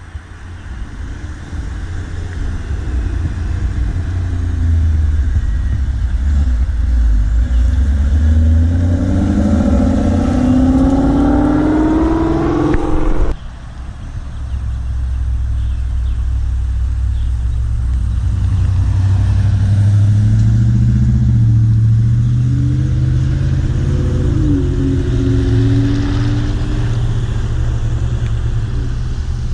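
Car engines running loud and low as show cars drive in. One accelerates with a rising pitch and cuts off abruptly about 13 seconds in, then another engine rumbles and climbs in pitch as it pulls by.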